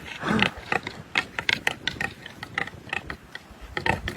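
Rapid, irregular sharp clicks, several a second, with a brief low, wavering groan about a third of a second in.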